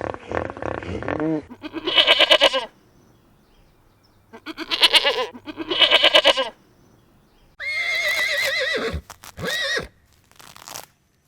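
Goat bleating repeatedly: a series of loud, wavering calls with short pauses between them, two of them in quick succession near the middle.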